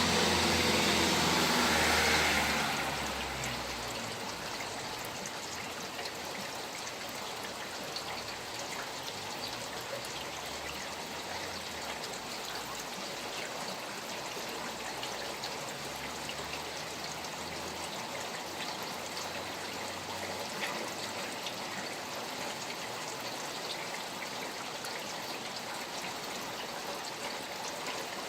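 Steady rain falling beside flowing stream water, an even rushing hiss with scattered drop ticks. A louder rush with a low rumble in the first two or three seconds fades away.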